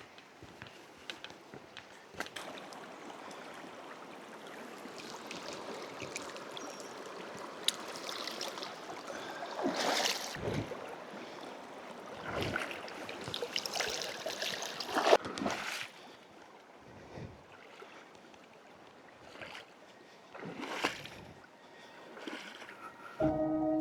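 A hiker's footsteps on a rocky trail, with a few louder scraping steps around the middle, over a steady rushing of flowing water. Music with bell-like tones starts right at the end.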